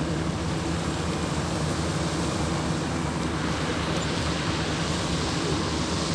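A steady low engine hum under an even rushing hiss.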